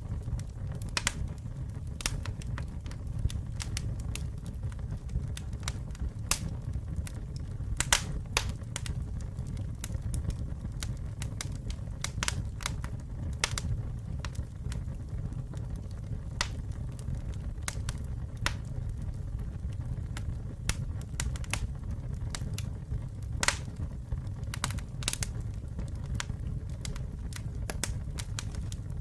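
Campfire burning: a steady low rumble of flames under irregular sharp crackles and pops from the burning wood, with a few louder pops.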